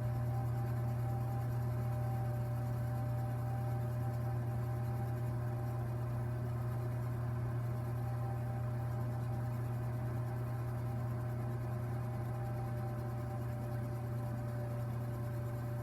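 Fireplace giving off a steady low droning hum, with a few fainter steady tones above it, likened to a helicopter.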